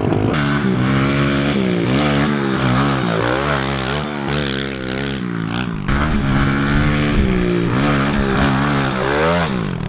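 Pit bike engine revving under a rider, its pitch rising and falling over and over as the throttle is opened and closed, with a brief dip about halfway through.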